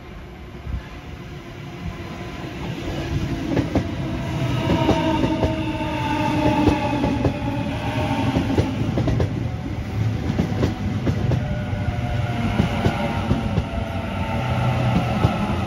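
Sydney Trains Waratah B-set electric train arriving and passing close by, growing louder over the first few seconds. Its motors give a whine of several tones that slowly drops in pitch as the train slows, over a low rumble and a run of wheel clicks on the rails.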